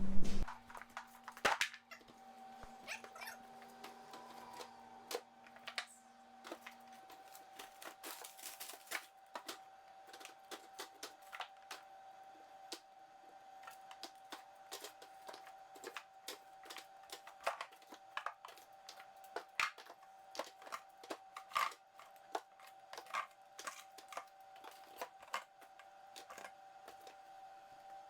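Scattered light knocks and clicks of frozen meat packages being handled and stacked into a chest deep freezer, over a steady hum.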